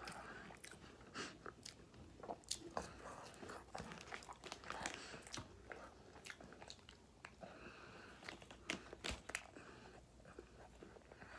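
A person chewing and biting Burger King food, with faint, irregular crunching clicks of the mouth.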